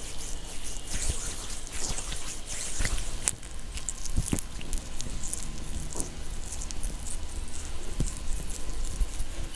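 Close-miked ASMR trigger sounds: irregular small clicks and taps with soft crackly rustling.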